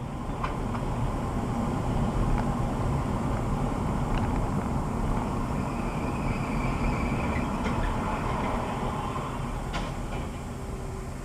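Steady rumble of a moving road vehicle, with a few faint clicks.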